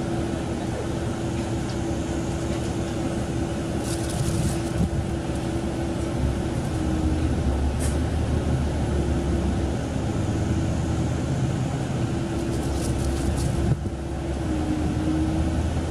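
KiHa 40 diesel railcar's engine running with a steady drone, its low rumble growing heavier from about six seconds in, with a few short clicks.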